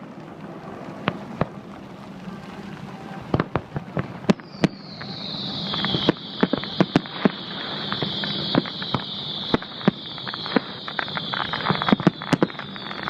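Fireworks display: sharp bangs of shells bursting, irregularly spaced. About four seconds in a high hissing whistle starts and falls slightly in pitch, with dense crackling that thickens toward the end.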